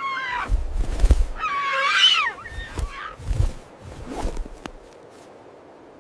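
An animal calling twice: a short falling cry, then a longer wavering call about one and a half seconds in, with a few low thumps around them.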